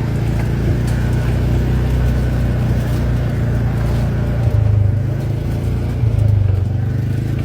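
UTV engine running steadily as it drives along, with its note swelling briefly twice, about four and a half and six seconds in.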